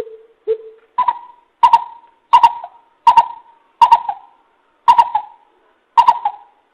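Greater coucal calling: a series of deep, hollow hoots. Two lower hoots come first, then about seven higher ones at a steady pace of roughly one every 0.7 s, each starting sharply.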